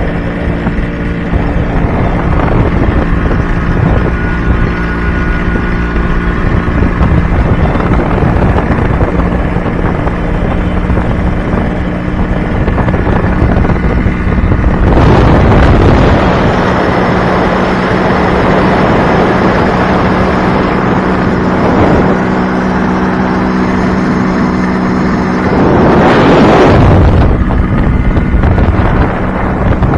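Yamaha RX-King's two-stroke single-cylinder engine running steadily on the move, with wind rushing over the microphone, heavier about halfway through and again near the end.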